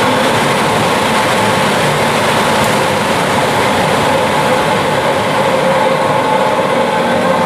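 Belt-driven 18,000 CFM fiberglass exhaust blower with a 60 hp three-phase motor, running steadily at full speed just after start-up: a loud, even rush of air with a steady hum.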